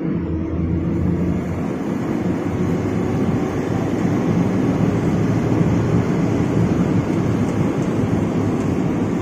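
Heavy diesel truck engine running hard under load, its pitch and loudness rising slowly and steadily.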